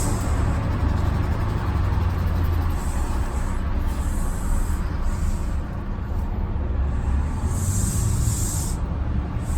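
Steady low rumble with a hiss over it, the sound of ambient background noise; the hiss swells and fades a few times.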